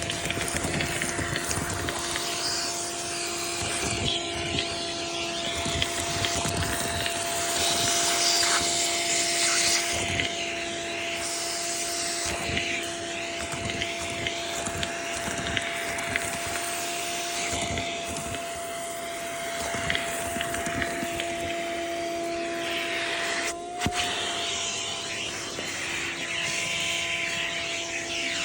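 A vacuum cleaner running steadily with a constant motor hum, briefly dipping about 24 seconds in. Irregular clatter and rustling run over it as walnuts and chewed nest debris are cleared out of a car's interior.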